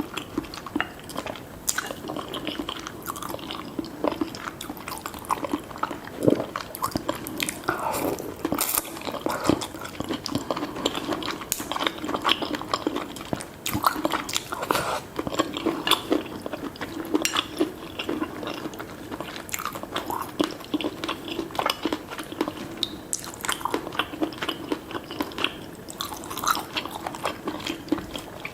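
Close-miked eating sounds: chewing and biting with frequent wet smacks and small clicks, steady throughout.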